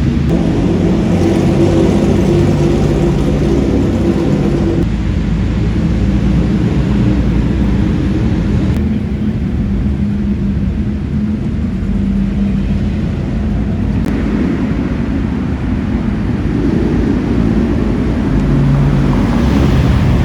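Car engines running with road and traffic rumble, changing abruptly several times as the footage cuts between cars.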